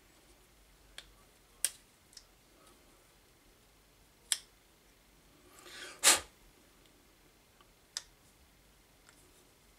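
A few sharp clicks and knocks from small parts being handled and tested on a workbench. A short rustle builds up about five and a half seconds in and ends in the loudest click just after six seconds.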